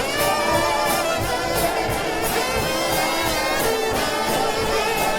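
Brass shout band, led by trombones, playing a fast up-tempo tune. A drum kit keeps the beat, with a cymbal stroke about three times a second.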